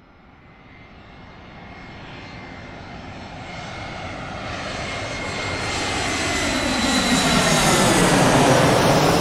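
Airplane approaching and passing overhead, its engine noise growing steadily louder from nothing to a peak near the end, with a steady high whine over a rushing roar that sweeps and phases as it nears.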